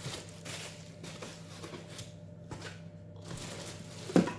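Faint rustling and light clicks of vacuum parts and packaging being handled, with a short louder sound near the end, over a steady low hum.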